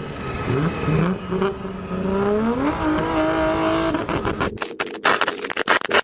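Car engine with a loud exhaust revving, its pitch climbing over the first few seconds and then holding, followed near the end by a rapid string of sharp exhaust pops and bangs.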